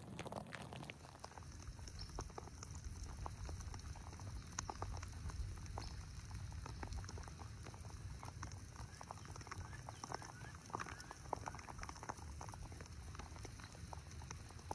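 Light rain falling, with many scattered drops pattering irregularly over a steady low rumble.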